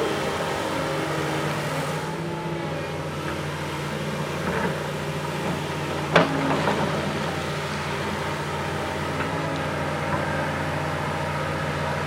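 Backhoe loader's diesel engine running steadily, with a sharp knock about six seconds in and a few fainter knocks and clanks around it.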